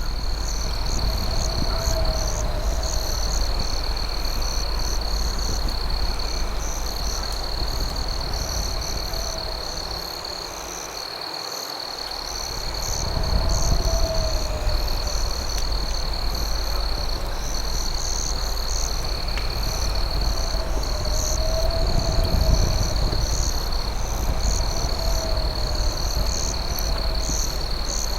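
Night insect chorus: crickets giving a steady high trill with faster pulsing chirps above it, over a low steady rumble. A lower wavering call comes in every three to four seconds.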